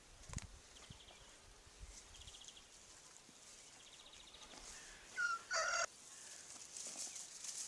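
Domestic chicken giving one loud, harsh two-part call a little past five seconds in, over faint clicks and rustles in the run.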